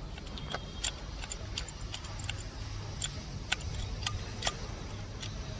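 Hand tools clicking and tapping on metal engine parts while the connecting-rod caps of a Mahindra Jeeto engine are undone. There are irregular sharp metallic ticks every half second or so over a low steady hum.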